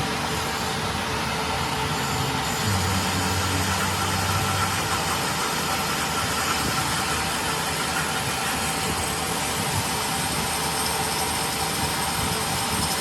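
A machine running steadily: a constant mechanical hum and hiss, with a deeper hum joining for about two seconds, about three seconds in.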